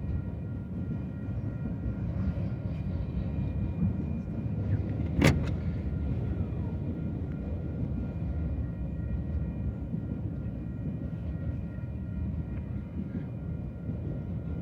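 Union Pacific autorack freight train rolling past close by: a steady low rumble of cars and wheels on the rails, with a few faint, thin high tones over it. One sharp knock comes a little over five seconds in.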